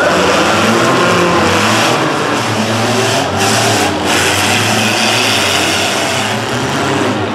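Engines of several compact demolition-derby cars running and revving in the arena, with two brief gaps in the sound about three and four seconds in.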